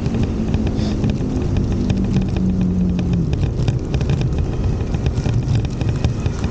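Road traffic: a passing motor vehicle's engine tone falls in pitch over the first three seconds, over a steady low traffic rumble.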